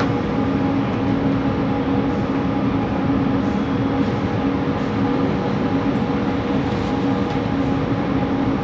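Inside a Bombardier Innovia ART 200 train running at steady speed: rumbling running noise with a constant hum of several steady tones from its linear induction motors, the motor noise that is unusual on this train set.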